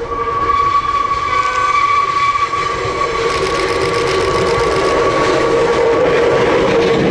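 Hakone Tozan Railway electric train running on the line, with steady high whining tones over its running noise, growing louder as it approaches.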